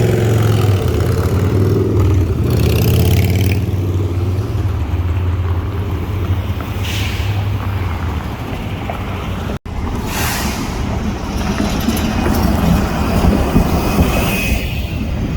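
Heavy road vehicle's engine running with a steady low rumble, with several short hisses over it. The sound cuts out for an instant about two-thirds of the way through.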